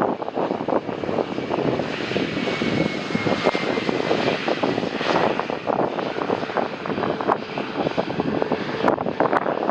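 Jet airliner on landing approach, its engines making a loud steady rush with a faint high whine that slides slowly down in pitch, mixed with wind buffeting the microphone.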